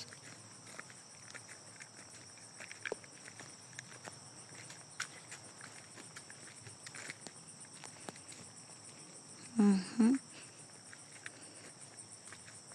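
Insects chirring outdoors in a steady, high-pitched drone, with faint scattered ticks. A person's voice sounds briefly twice about ten seconds in.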